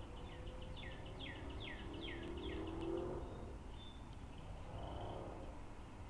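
A songbird sings a run of repeated down-slurred whistled notes, about three a second, that stops about three seconds in. Under it, a lower hum rises in pitch and is loudest just as the song ends, then fades, over a steady outdoor background.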